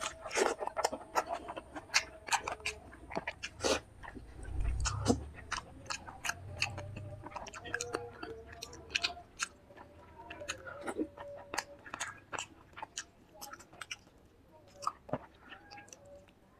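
Close-miked chewing and wet mouth sounds: quick irregular smacks and clicks of someone eating a fish curry meal, with a low thump and rumble about five seconds in.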